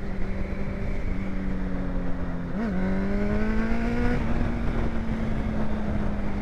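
Honda CBR650's inline-four engine through an aftermarket exhaust, holding a steady cruising speed, with a quick blip of the revs about two and a half seconds in, after which it pulls on with slowly rising pitch. Wind rushes over the microphone throughout.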